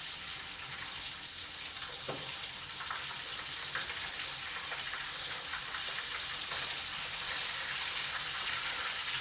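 Breaded chicken pieces frying in hot oil: a steady sizzle with scattered small crackles.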